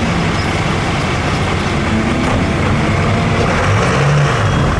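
Loud engine of a competition pulling vehicle running hard and steadily, its pitch shifting slightly.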